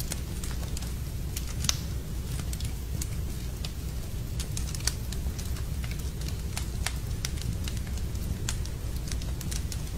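Wood fire burning in a fireplace: irregular sharp crackles and pops over a steady low rumble, with a louder pop about two seconds in and another near the middle.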